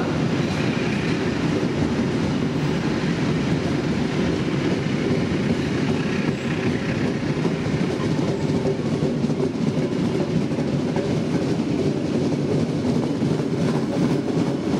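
Intercity passenger train coaches running past, steel wheels on the rails making a steady, continuous noise.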